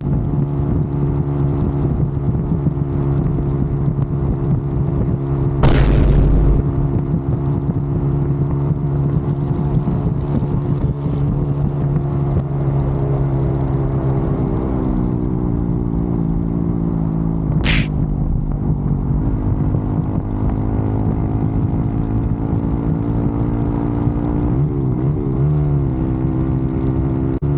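Sportbike engine running steadily under way, its pitch dropping about two-thirds of the way through and wavering briefly with throttle changes near the end. A loud thump about six seconds in and a short sharp click about eighteen seconds in.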